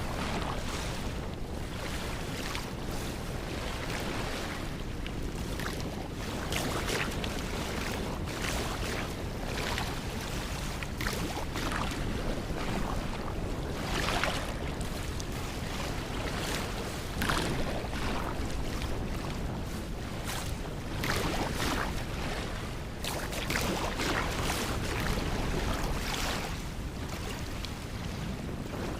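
Sea waves washing and breaking in irregular surges every second or two, with wind rumbling on the microphone.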